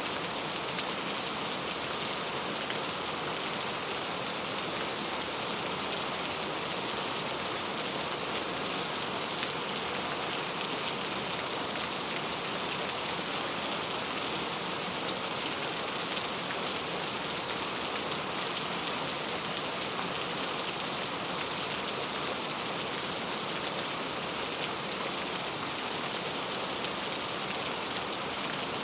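Steady rain falling, a constant hiss of drops with faint individual patters, even in level throughout.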